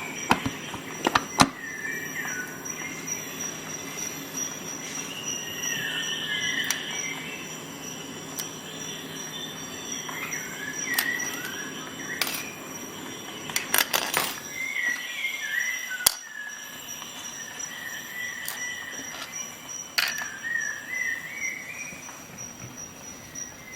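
Sharp metallic clicks, spaced a few seconds apart, of a Swiss Army knife's blades and tools snapping open and shut, with short high squeaky glides between them.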